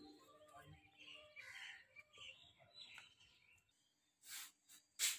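Faint bird chirps in a rural yard, followed near the end by a couple of short hissing rustles.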